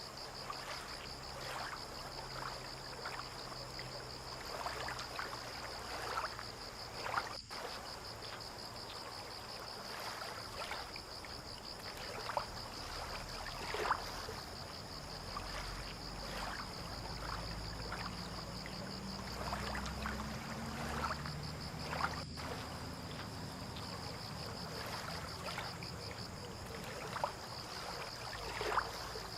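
Harbour water lapping and splashing in small irregular slaps, under a steady high insect trill. In the middle a low boat-engine drone swells and slowly rises in pitch.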